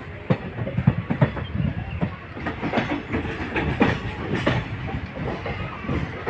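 Moving passenger train heard from an open coach window: a steady running rumble with the wheels knocking irregularly over rail joints, many clacks in quick succession.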